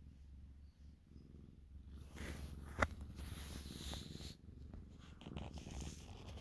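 Siamese kitten purring steadily, a low, even pulsing. From about two seconds in, rustling and brushing noises join it, with one sharp click.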